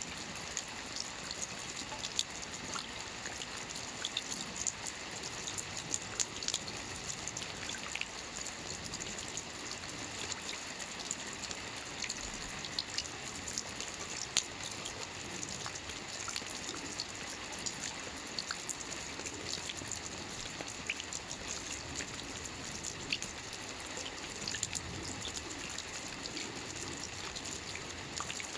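Steady light rain falling on a roof: an even hiss with many scattered, distinct drop ticks.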